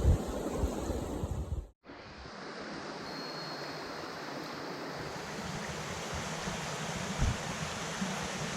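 Mountain stream rushing steadily, with low wind buffeting on the microphone for the first couple of seconds; the sound drops out briefly about two seconds in, then the steady rush of water resumes.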